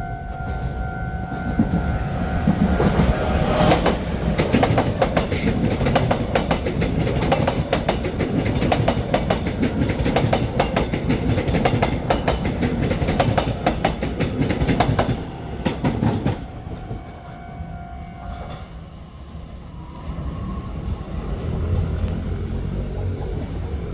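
A Taiwan Railway train sounds its horn and passes through a station at speed, with dense, rapid wheel clatter over the rails for about thirteen seconds, before the horn briefly sounds again and the rumble fades.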